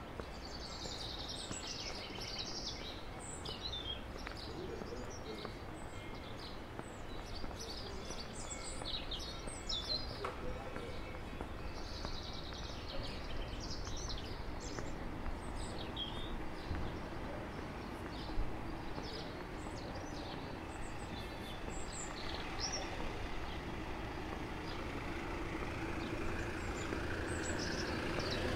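Small birds chirping and twittering over a steady outdoor background noise, with a motor vehicle approaching and growing louder near the end.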